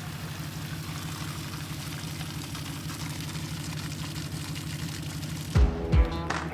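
Truck engine running steadily with an even low pulse, the wrecker working to drag a flooded Hummer from the river. Near the end it cuts to music with heavy bass thumps.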